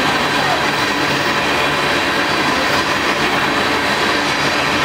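Freight train of loaded tank cars rolling past at speed: a loud, steady noise of steel wheels running on the rails.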